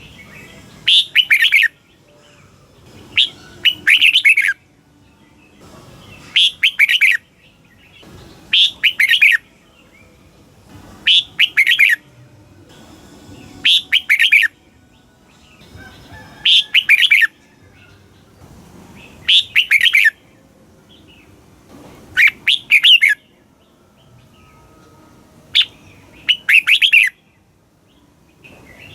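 Red-whiskered bulbul singing: short, bright song phrases, mostly in quick pairs, repeated about every two and a half seconds.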